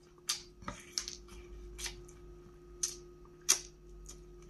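Mouth noises of a man gnawing and chewing meat off a smoked pork rib bone: about half a dozen scattered wet smacks and clicks.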